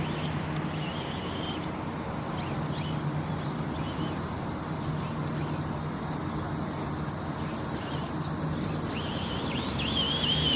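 Electric motor and drivetrain of a Vaterra Glamis Uno RC buggy whining as it speeds up and slows, in a burst near the start and again near the end, with brief chirps between, over a steady low hum.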